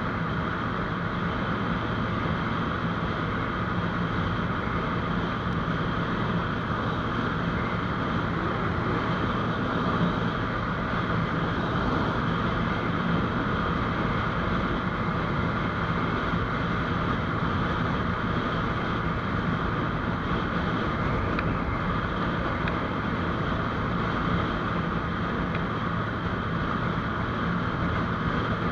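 GPX GR200R motorcycle engine running steadily while riding at a constant speed, with wind rushing over the microphone.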